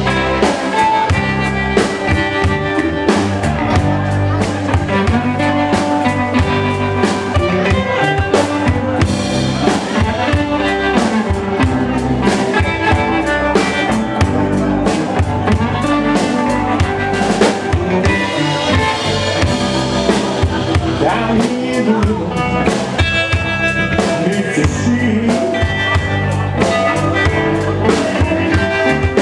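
Live band music: a drum kit, guitar, keyboard and bass guitar playing together at a steady tempo.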